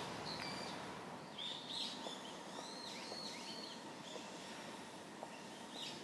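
Small birds chirping: a single call just after the start, a run of five or six short arched chirps in the middle, and more near the end. The chirps sit over a faint, steady outdoor background hiss.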